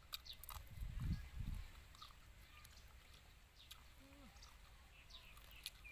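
Quiet close-up eating sounds of grilled fish: low chewing thuds about a second in, then soft mouth clicks and smacks as the fish is picked apart by hand and chewed.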